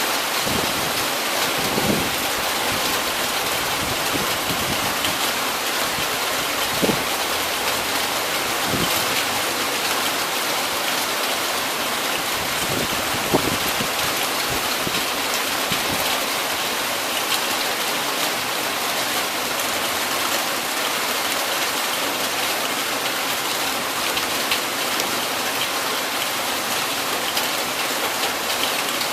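Heavy rain falling steadily, a dense even hiss, with a few louder taps now and then.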